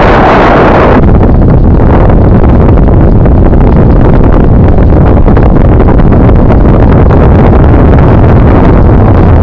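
Heavy wind buffeting on the microphone of a camera carried on a moving bicycle. It is steady and very loud, near the top of the recording's range, with a stronger gust in the first second.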